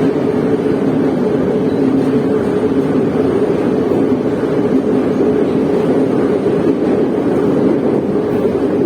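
Moscow metro train running between stations, heard from inside the carriage: a steady, loud rumble of wheels and running gear.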